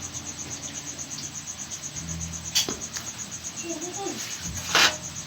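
A cricket chirps steadily in a fast, even pulse in the background, while hands work with wires on the bench: a sharp click about two and a half seconds in and a louder short rustle-and-clatter near the end.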